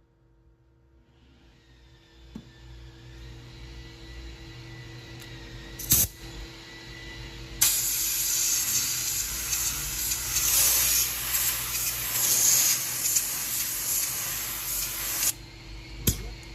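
Black paint being sprayed onto the repaired spot of a wheel: a steady hissing spray that starts about halfway through and cuts off sharply about seven seconds later, with a sharp click just before it and another just after.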